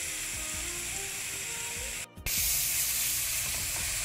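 Grated carrots frying in hot ghee in a steel pan, a steady sizzling hiss. It cuts out for a moment about halfway through, then returns louder.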